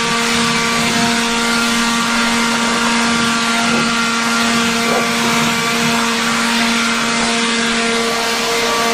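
Electric angle grinder running steadily at full speed on a heavily rusted quarter-inch steel plate: a constant motor whine over the hiss of the disc working the rust.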